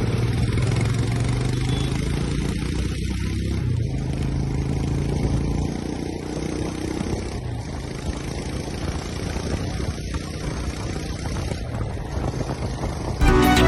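Motorcycle engine running steadily under way, with a low even drone. Music starts near the end.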